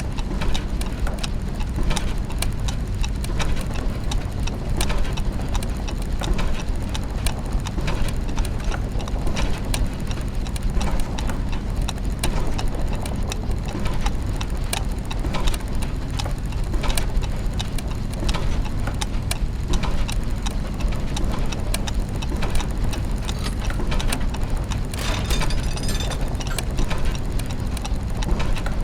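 Layered clockwork and gear mechanisms running: many overlapping ticks, clicks and ratcheting knocks over a steady low mechanical hum, with a brief burst of faster high metallic ticking about 25 seconds in.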